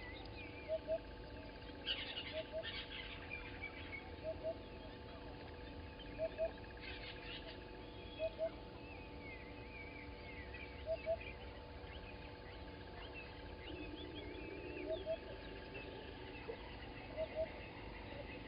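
Morning birdsong at a bush waterhole. A low two-note call repeats every second or two over many higher chirps and trills, with a couple of brief rustles near the start.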